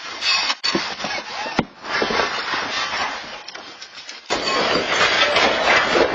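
Earthquake shaking: a loud, noisy rumble and rattle of a building and its loose contents, cutting out and starting again abruptly a few times.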